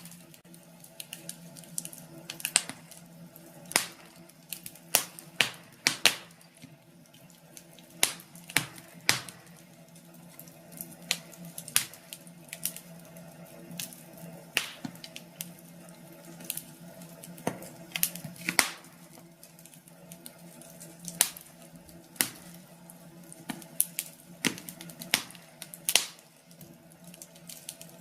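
Wood fire in a fireplace crackling, with irregular sharp pops and snaps several times a second over a steady low hum.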